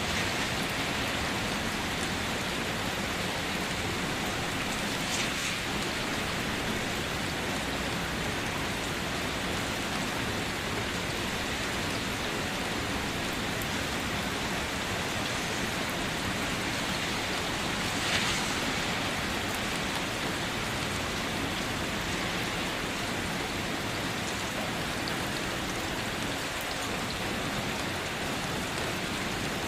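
Steady rain falling on leaves and surfaces, an even hiss of raindrops, with a couple of slightly louder drips or splashes about 5 and 18 seconds in.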